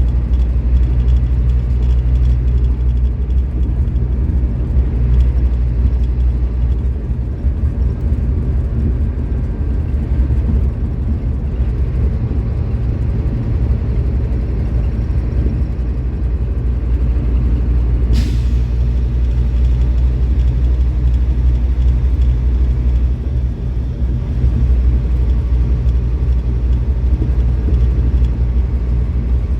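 Scania K310IB bus diesel engine running steadily with a deep low drone that eases and picks up slightly a couple of times. About two-thirds of the way in there is one brief, sharp sound.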